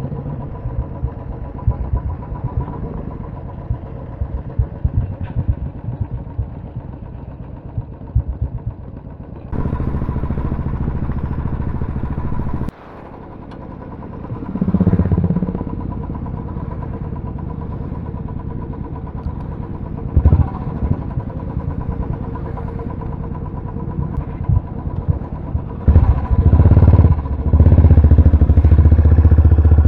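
Royal Enfield single-cylinder motorcycles running, their engines swelling louder in stretches, with a sudden drop about a third of the way in and the loudest stretch near the end.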